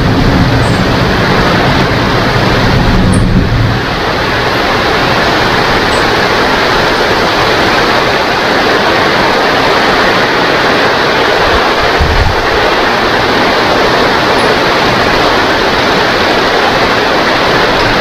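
Heavy rain falling steadily, with a low thunder rumble that fades out over the first few seconds and a short low rumble about twelve seconds in.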